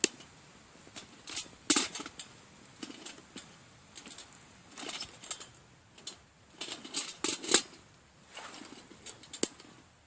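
Irregular clicks, taps and light knocks of small objects being handled, some in quick clusters, with a sharper knock at about two seconds and at about seven and a half seconds.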